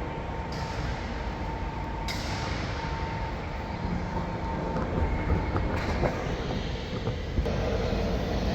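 Steady running noise of a moving vehicle, strongest in the low rumble, with a faint steady hum over it.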